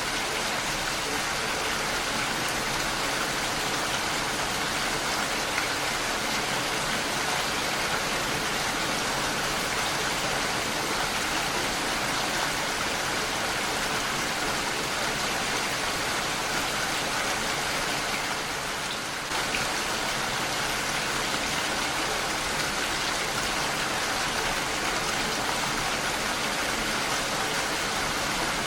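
Heavy rain falling steadily on a window, a dense even hiss of drops.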